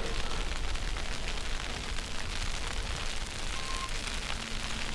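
Steady snowstorm wind buffeting the microphone, a low rumble under a constant hiss. A short faint tone comes in about three and a half seconds in.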